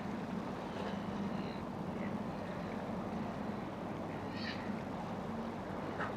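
Steady low drone of boat engines on the harbour, with a few short, high bird calls over it, the clearest about four and a half seconds in.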